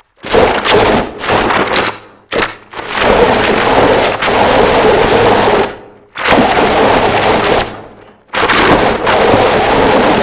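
Harsh noise music: loud walls of dense distorted noise that cut out abruptly and slam back in several times.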